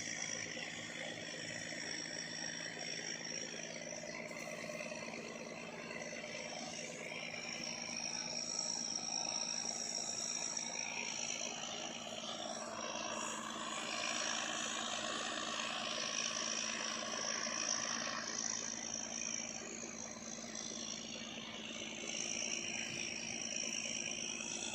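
Steady drone of a tugboat's diesel engine towing sand barges on the river, with a high thin trill coming and going over it.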